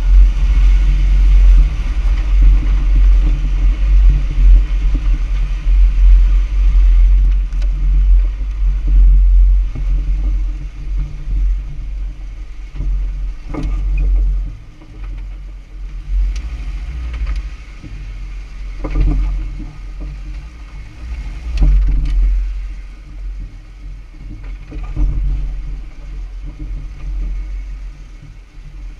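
Jeep Wrangler Rubicon driven slowly on a dirt off-road trail: a steady low engine and road rumble, louder in the first half, with a few sharp knocks along the way.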